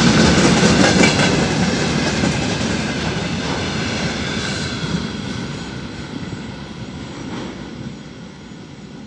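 Freight train's open-top gondola wagons rolling past, their wheels clattering over the rails, the sound fading steadily in the second half as the end of the train draws away.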